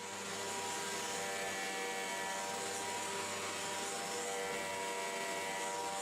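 Hoover WindTunnel T-Series Rewind upright vacuum running steadily: a motor whine of several steady tones over a strong airy hiss.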